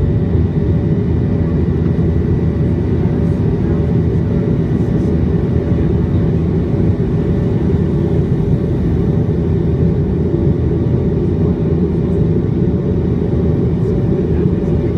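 Steady, loud rumble of a McDonnell Douglas MD-90 airliner during takeoff, heard from inside the cabin: the rear-mounted IAE V2500 turbofans at high power plus airflow noise, with a faint steady hum over it.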